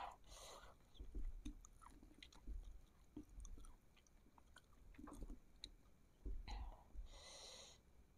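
Faint close-up eating sounds: chewing of sauce-coated fried meatballs, with soft clicks of a plastic fork and spoon working through the sticky meatballs. Two short breathy puffs of air, one just after the start and one about seven seconds in.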